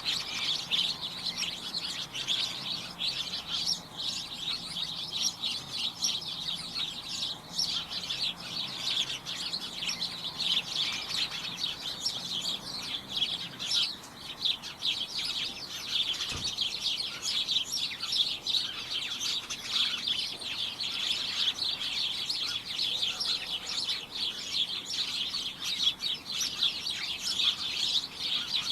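A flock of small birds chirping continuously, many short overlapping high chirps at once, with a brief low thump about halfway through.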